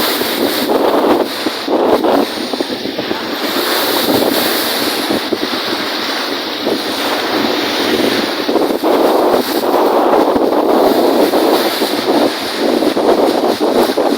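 Strong wind buffeting the microphone over wind-driven lake waves washing in, a loud, continuous rush that swells and eases every few seconds.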